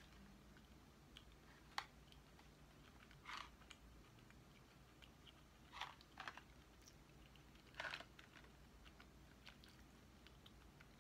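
Faint chewing of a jelly bean: a handful of short, soft mouth clicks over near silence.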